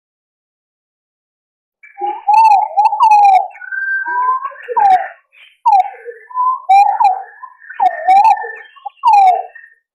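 Green pigeon (punai) calls from a bird-lure recording: after about two seconds of silence, a run of loud whistled notes that glide and warble up and down, ending just before the close.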